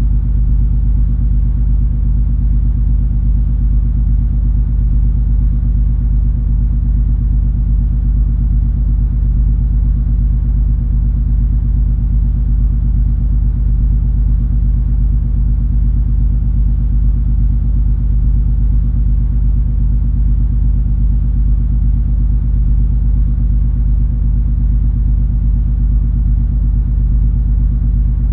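Steady low rumble and hum of the MS Color Fantasy cruise ferry's engines heard aboard while the ship is under way, with a few steady low tones over a deep drone that stays unchanged throughout.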